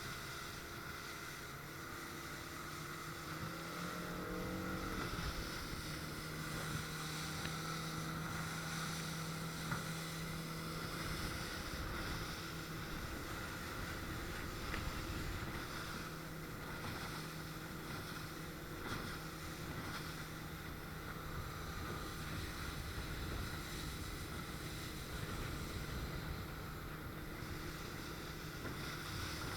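A RIB's outboard engine running steadily under way, with a brief rise in pitch about four seconds in. Wind buffets the microphone throughout.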